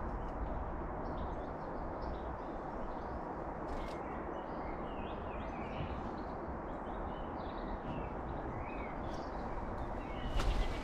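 Faint, scattered short chirps of small garden birds over a steady background hiss of outdoor noise, with a louder noisy burst near the end.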